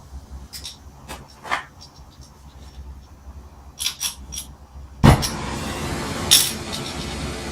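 Light metallic clinks of tools, then about five seconds in a sharp pop followed by a steady hiss that carries on: a torch being lit to heat a stuck brake drum so it can be freed.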